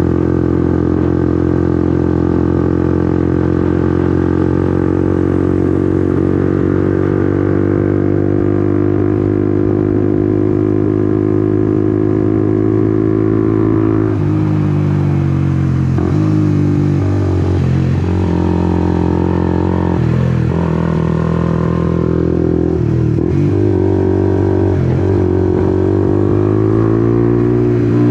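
Honda CBR150R's single-cylinder engine under way, holding a steady pitch for about the first half. After that the engine note falls and climbs again several times as the throttle is eased off and reopened, rising toward the end.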